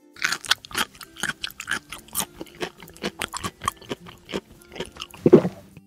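Crunchy chewing and biting sounds, a rapid, irregular run of small crunches, with one louder, deeper sound about five seconds in.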